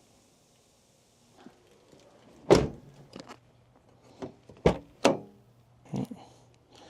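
A truck door being handled: a series of about five sharp knocks and clunks, the loudest about two and a half seconds in.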